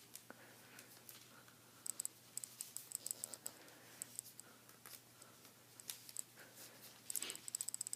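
A sheet of origami paper being folded and creased by hand: faint, scattered crisp crackles and ticks, with a quick run of them near the end.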